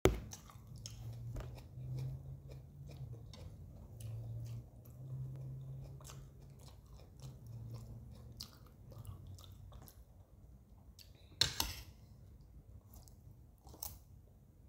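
Close-up chewing and crunching of raw lettuce leaves, many short crisp crunches, with a low hum coming and going over the first nine seconds and one louder sharp crunch about eleven seconds in.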